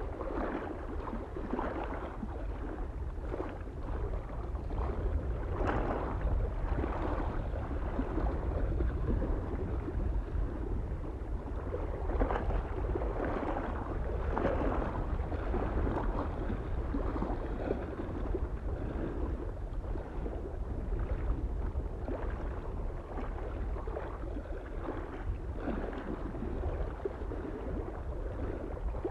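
Small lake waves lapping at the shore in irregular washes, over a steady low rumble of wind.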